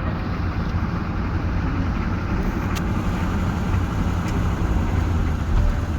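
Car running, a steady low engine and road rumble heard from inside the cabin, with a single sharp click about three seconds in.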